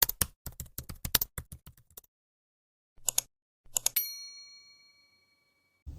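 Rapid typing clicks for about two seconds, two more short bursts of clicks after a silent gap, then a single bell ding that rings out and fades over about a second and a half.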